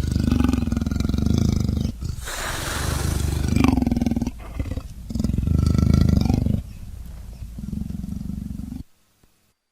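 A large animal's deep, loud calls, about four in a row, each lasting a second or two; the sound cuts off abruptly near the end.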